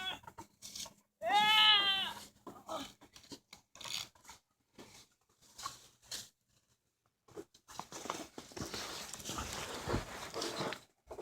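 One loud, high animal call that rises and falls in pitch, about a second and a half in, followed by scattered short knocks and a stretch of rustling near the end.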